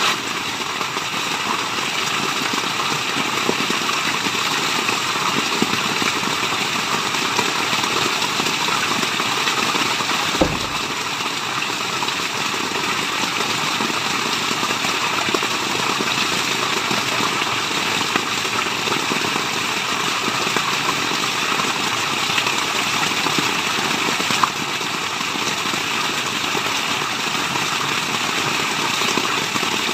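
Steady rush of falling water, a dense even hiss of water noise with no change in level. One dull low thump sounds about ten seconds in.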